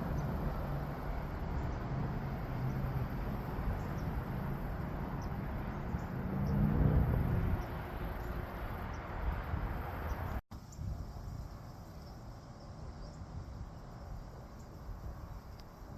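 Wind rumbling on the microphone, with a louder swell about seven seconds in. After a cut about ten seconds in the rumble is quieter and faint insect chirps come through.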